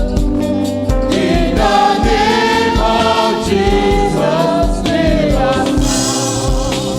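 Gospel praise song sung by a choir of voices over a band, with a steady low drum beat about twice a second.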